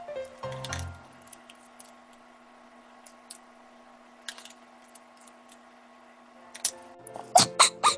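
Background music ends about a second in. A faint steady hum follows, with a few scattered small clicks, and sharper knocks come near the end.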